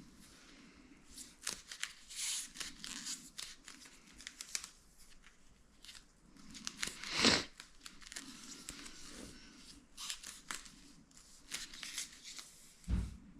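Hands working sealing-strip material for a homemade dryer drum seal: irregular rustling and crinkling with many sharp snips and clicks, a louder rustle about seven seconds in and a dull thump near the end.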